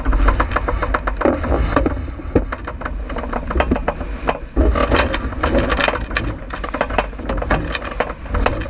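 J80 sailboat under way: a steady low rumble of wind and motion, with frequent irregular rattling and knocking from the boat's gear.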